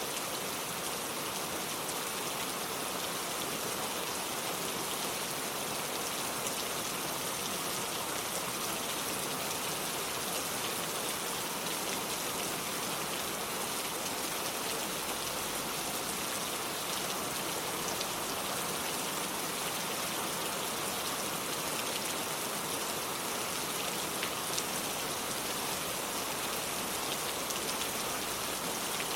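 Steady rain falling and pattering on hard surfaces, an even hiss with faint scattered drop ticks.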